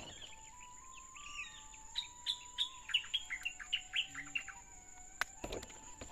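A bird singing a quick run of short, down-slurred chirps, about four a second, for a couple of seconds.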